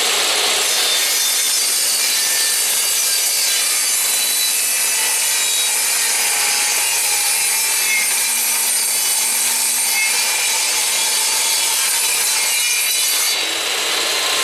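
Electric power tool running steadily on plywood to round off a corner of a boat seat top, a continuous hissing grind that drops slightly in level near the end.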